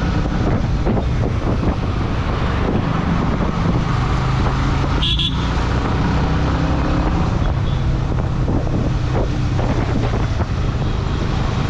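Motorcycle engine running steadily while riding in road traffic, with wind rushing over the microphone. A brief high-pitched beep sounds about five seconds in.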